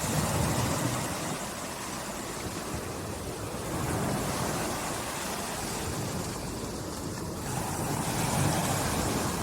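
Small, calm sea waves lapping on the shore, the wash swelling and easing three times: near the start, about four seconds in, and near the end.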